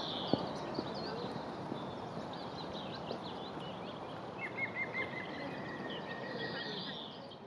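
Several songbirds singing and chirping over a steady background rush. About halfway through, a fast run of repeated high notes comes in. The sound starts to fade out near the end.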